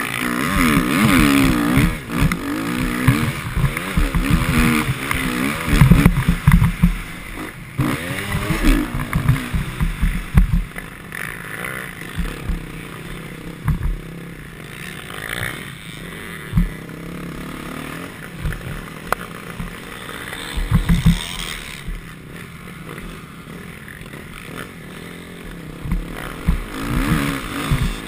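Motocross bike engine revving hard and easing off again and again as it is ridden round the track, with short low knocks and rumble. The revving is busiest in the first half and picks up again near the end.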